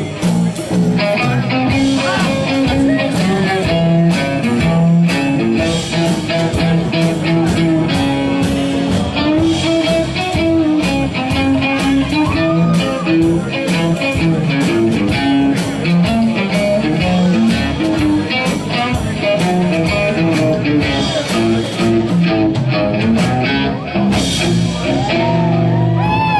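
Cello picked with the fingers like a guitar, playing a tune of quick plucked notes over a steady beat.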